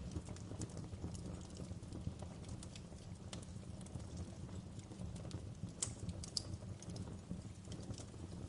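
Wood fire crackling: irregular sharp snaps and pops over a low, steady rumble of burning. Two louder pops come about two-thirds of the way through.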